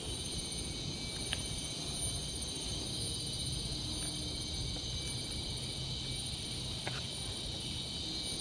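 Steady high-pitched drone of insects in tropical forest, over a low background rumble, with two faint clicks.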